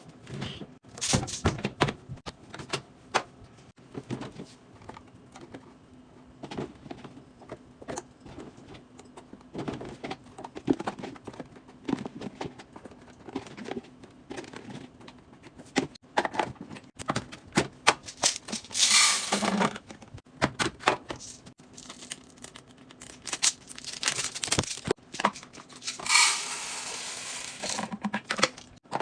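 Fridge restocking: items and containers being set in place, making many light clicks, taps and clatters. There are two longer noisy stretches, about two-thirds of the way in and near the end.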